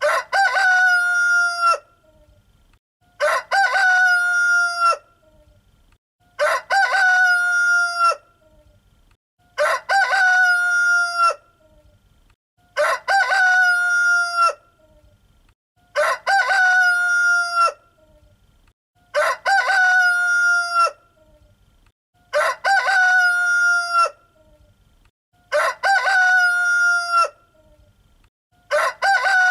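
A rooster crowing cock-a-doodle-doo over and over, about once every three seconds, each crow alike in shape and length with short quiet gaps between.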